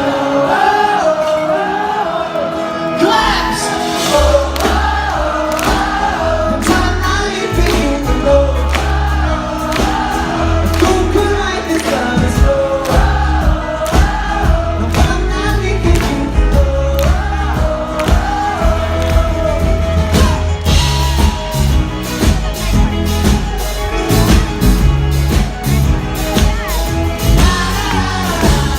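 Live indie-folk-pop band playing with many voices singing a wordless melody; the bass and a steady drum beat come in about three seconds in.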